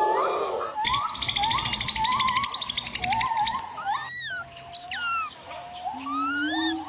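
Several forest birds calling over one another in tropical rainforest, in short whistled notes that slide up and down in pitch. A fast pulsing trill sounds from about one to three seconds in. A steady insect drone cuts off just under a second in.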